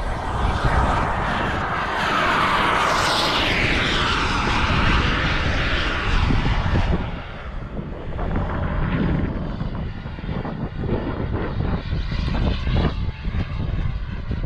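Radio-controlled model airplane flying a fast pass, its whine climbing in pitch and then falling away about two to five seconds in. Wind rumbles on the microphone throughout.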